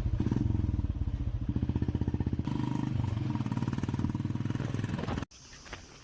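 A vehicle engine running close by with a rapid, even pulse. It stops abruptly about five seconds in, leaving a quiet background.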